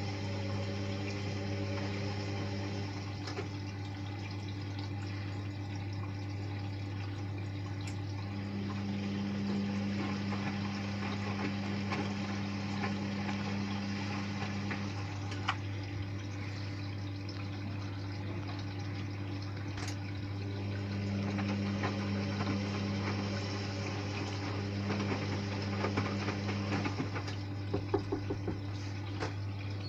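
Hotpoint Ariston washing machine running its Mix 15 programme: water flowing through the machine over a steady low electrical hum. A second, higher hum comes in twice for several seconds, and a few light clicks sound near the end.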